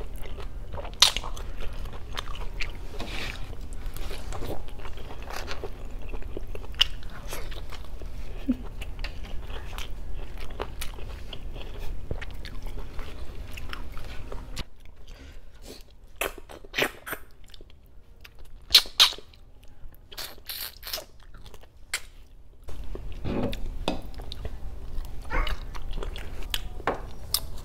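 Close-miked chewing and biting of boiled pork hock, with many short sharp mouth clicks and smacks. A low steady hum lies under it and drops away for several seconds in the middle.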